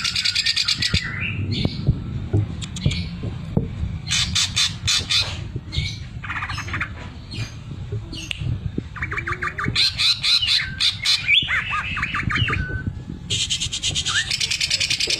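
Greater green leafbird (cucak ijo) singing loudly in rapid rattling bursts of fast repeated notes, the 'sewing machine' (mesin jahit) phrase prized in songbird keeping. A dense, fast trill starts near the end.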